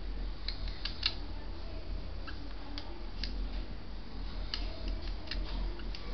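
Budgerigars making scattered short, sharp clicks and tiny chirps, irregularly spaced, over a steady low hum.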